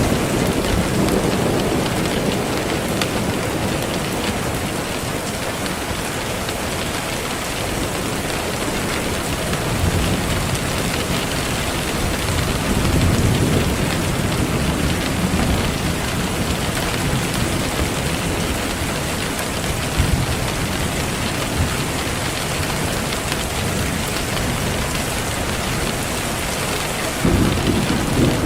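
Steady heavy rainfall with low rolls of thunder swelling up several times underneath.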